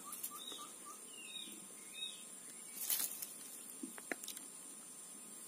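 Quiet outdoor background with a few faint bird chirps and calls in the first two seconds, then a brief click about three seconds in and a couple of faint ticks after it.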